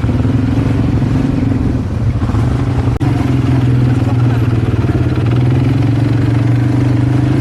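ATV (quad bike) engine running steadily at an even low pitch, with a brief break about three seconds in.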